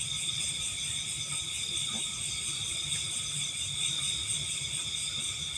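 Chorus of night insects, most likely crickets, keeping up a steady high-pitched trill, with a faint low rumble underneath.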